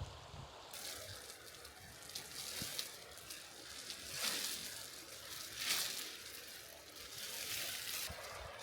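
Running water with a steady rush, swelling louder twice near the middle.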